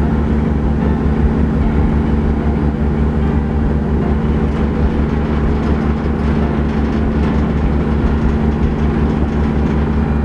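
Roll-on/roll-off ferry's diesel engines running with a steady low drone and a constant hum.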